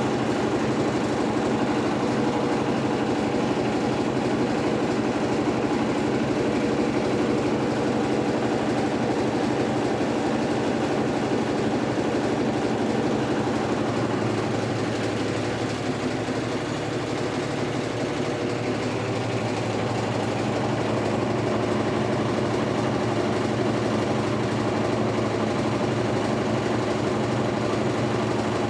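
Electrolux Turbo Economia LTE12 washing machine running, a steady motor hum with a slight drop in level about halfway through.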